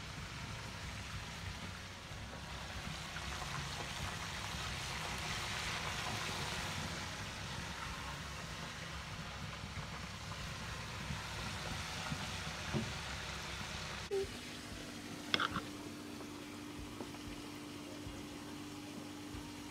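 Frying over an open wood fire: a steady sizzle with crackling of burning wood. About two-thirds of the way through, this gives way to a steady low hum and a few sharp knife clicks as a tomato is sliced over a clay plate.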